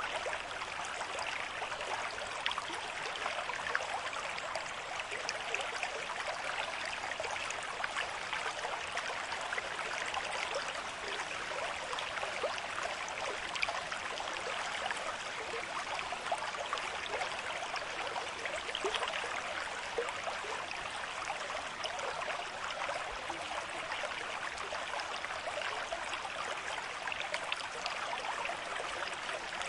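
River stream with a moderate flow running over rocks, a steady rushing with small splashes and gurgles throughout.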